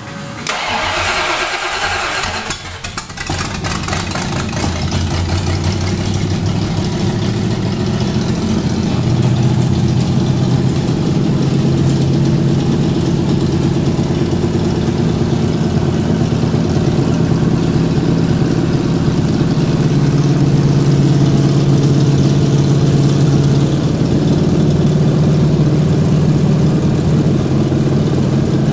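Freshly installed carbureted V8 in a 1983 Ford Mustang, started for the first time: the starter cranks it for about three seconds, then the engine catches and settles into a steady idle.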